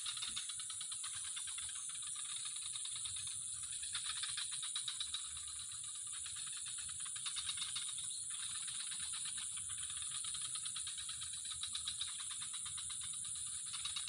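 Dense chorus of calling animals: rapid, steady trilling with a continuous high-pitched whine above it.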